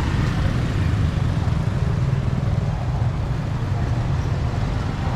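Road traffic on a city street: a steady low rumble of vehicle engines and tyres, with no distinct event standing out.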